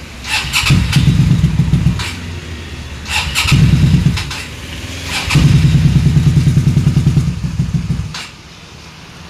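Kawasaki superbike engine and exhaust revved in three bursts, the last held for nearly three seconds, dropping back to idle in between and after.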